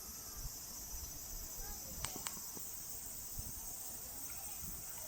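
Insects droning steadily in a high-pitched band, with two sharp clicks about two seconds in.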